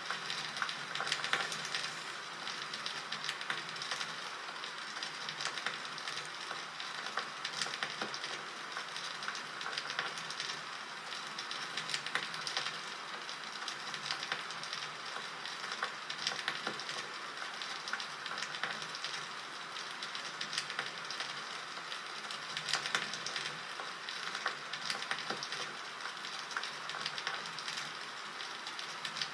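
Bonfire crackling: a steady hiss with frequent sharp snaps and pops of burning wood.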